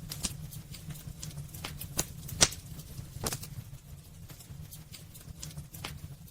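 Wood fire burning in a fireplace: irregular sharp crackles and pops over a steady low rumble of the flames, the loudest pop about two and a half seconds in.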